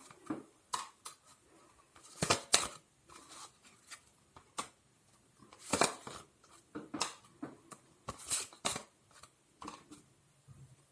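Tarot cards being handled: irregular crisp snaps and rustles of card stock, a few louder ones among fainter flicks.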